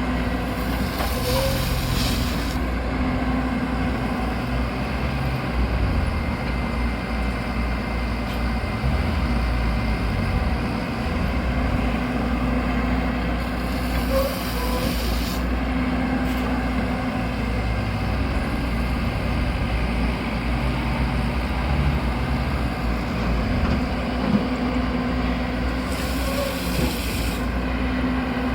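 Excavator diesel engine running steadily with a low drone. A short hiss, about two seconds long, comes three times: near the start, about halfway through and near the end.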